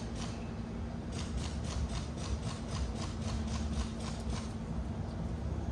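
Honeybees humming steadily at an open hive, with a run of quick, light wooden ticks and scrapes as a hive frame is lowered back into its box.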